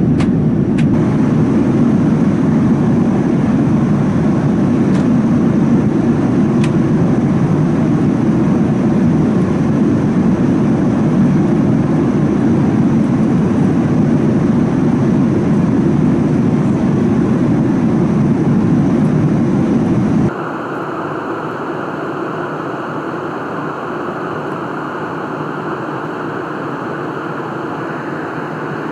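Steady low rumble of a GE-engined Boeing 787-9, engine and airflow noise heard from inside the cabin. About twenty seconds in it cuts off abruptly to a quieter, steady hiss.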